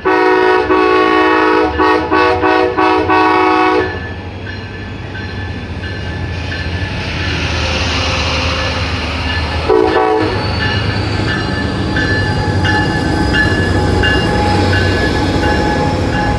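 Train horn sounding a multi-note chord for about four seconds, broken by several quick gaps, then one short toot about ten seconds in. In between and after, a train runs past with a low rumble and some high wheel squeal.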